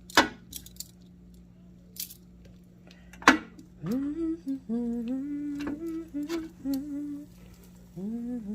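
Two sharp clacks, the second the loudest sound, as chicken wings are put into the grill. Then a woman hums a tune in held notes that step up and down, pausing and starting again near the end.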